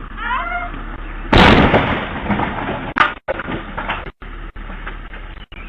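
A sudden loud crash about a second and a half in, dying away over about a second, then a sharp crack near three seconds. A few short honking calls sound just before the crash.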